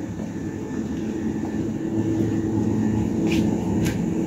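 Steady low humming supermarket background, with two brief rustles near the end.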